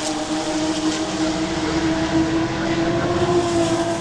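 Ford GT40 race car's V8 engine running hard at high, fairly steady revs, its pitch creeping up slightly before levelling off.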